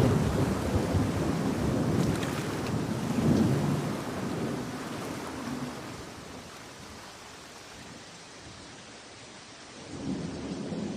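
Thunder rolling over steady rain. The rumble swells again about three seconds in, then dies away, leaving the rain quieter, and a new low rumble starts near the end.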